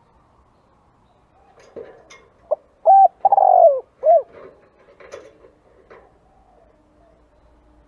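Spotted dove cooing: one phrase of short coos around a longer drawn-out middle coo, beginning about two and a half seconds in, with faint chirps and ticks around it.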